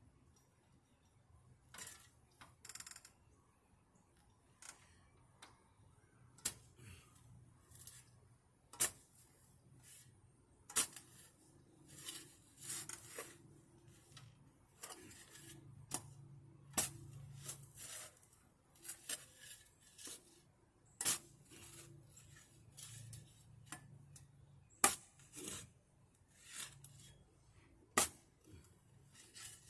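Shovel digging into dirt: irregular scrapes and sharp clicks as the blade cuts into soil and strikes stones, roughly one every second or two.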